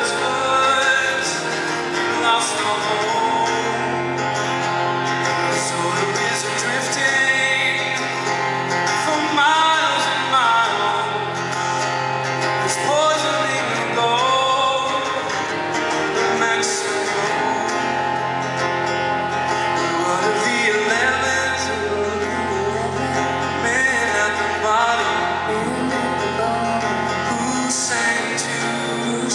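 Live band music: guitar over a steady bass, with sung vocal lines that glide and hold.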